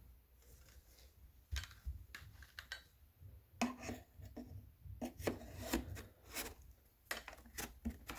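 Irregular clicks, knocks and short scrapes of hard objects being handled, with no vacuum motor running.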